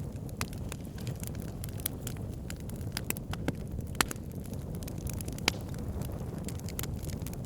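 Wood fire burning in a fireplace: a steady low rumble of flames with frequent sharp crackles and a few louder pops.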